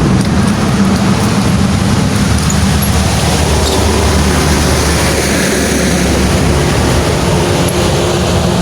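Truck engine running steadily: a continuous low hum under an even rumble.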